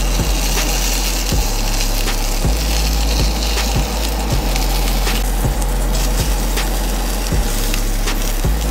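Sausage patties and English muffins sizzling in a cast-iron skillet over steady background music with a low bass line.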